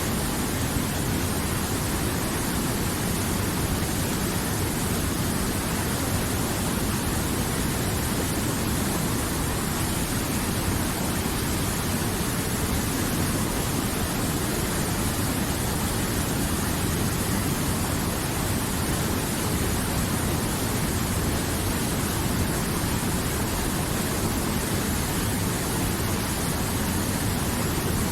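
River water flowing, a steady, even rushing sound with no change.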